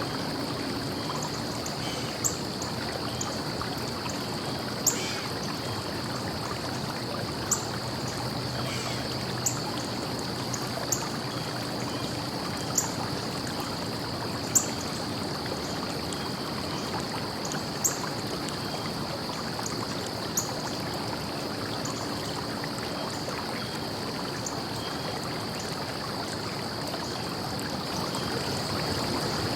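Stream water running steadily, with a constant high hiss. Sharp, short ticks stand out above it about every two to three seconds through the first two-thirds.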